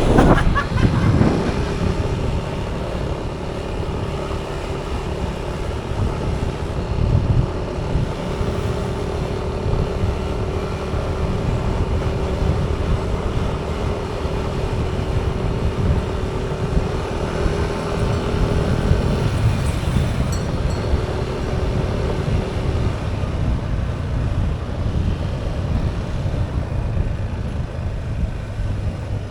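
Motorcycle riding in road traffic: engine and road noise, with a steady hum through most of the first twenty seconds.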